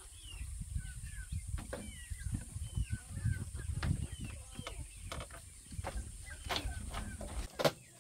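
Birds chirping: a steady run of short, falling peeps over a low rumble. A few knocks sound after about six seconds, and a sharp, loud knock comes just before the end.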